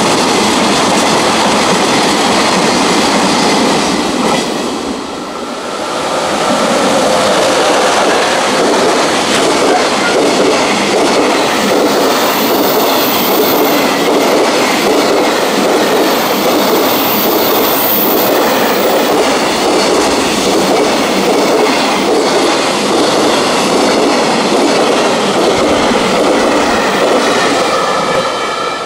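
Freight container train passing close by at speed: a loud, steady rush of wheels on rail and rattling wagons, dipping briefly about five seconds in.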